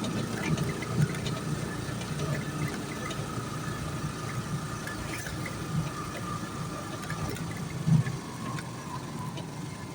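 A motor vehicle's engine running steadily, with a low hum and a thin whine that slowly falls in pitch. A few short knocks come through, the loudest about a second in and near eight seconds.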